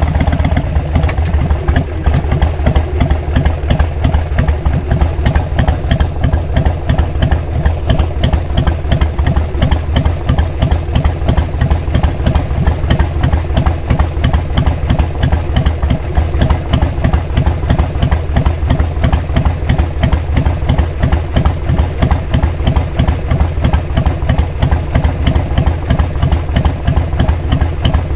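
Harley-Davidson XL883R Sportster's air-cooled 883 cc V-twin running steadily through aftermarket Cobra SpeedSter Short mufflers, with an even pulsing beat and no revving.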